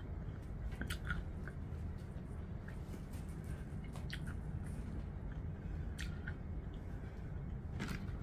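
Close-miked chewing, with short wet mouth clicks scattered through and a louder click near the end, over a low steady hum.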